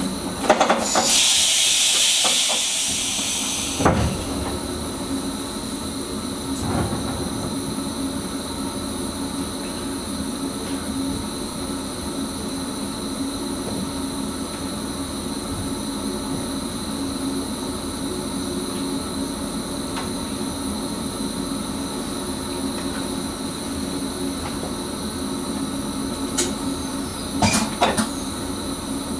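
Inside a Sprinter commuter train's driver's cab: a loud hiss of air lasts about three seconds and ends with a knock. The cab's steady equipment hum then carries on, with a few clicks near the end.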